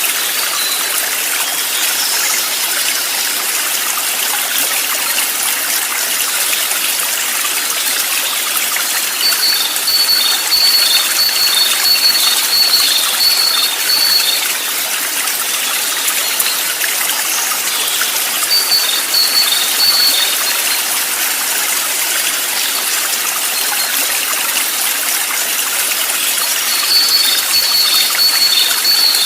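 Steady rushing of a flowing stream, with three bouts of rapid, repeated high-pitched chirping notes from a bird over it: a long run about ten seconds in, a short one near twenty seconds and another near the end.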